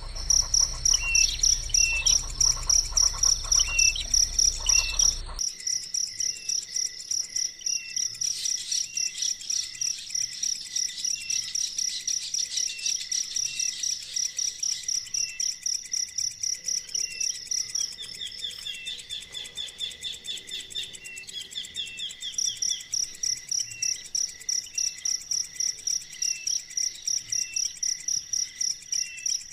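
Insects trilling in a steady high pulsing chorus, about three pulses a second, with short bird chirps repeating through it. A low rumble under the first five seconds stops abruptly, and for a few seconds past the middle the pulsing gives way to a faster, lower trill.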